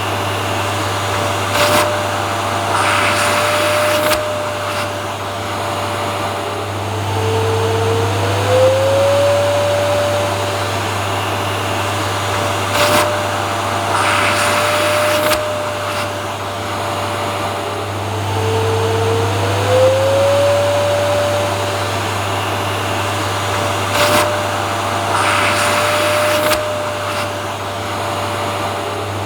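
Vacuum cleaner motor running steadily, with a high whine over a low hum. About every eleven seconds the whine drops in pitch and glides back up. Short scraping sounds recur on the same cycle.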